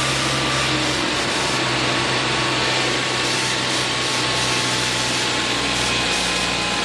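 Steady machinery noise: a motor running continuously with a low hum and an even rushing noise, at a constant level.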